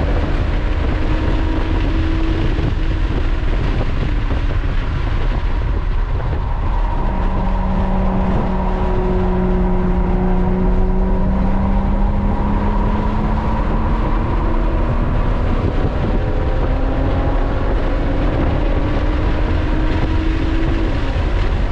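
Engine, tyre and wind noise inside the cabin of a Lotus sports car being driven hard on a track. The engine note drops as the car slows for a corner, then climbs in long rising sweeps as it accelerates back up to speed.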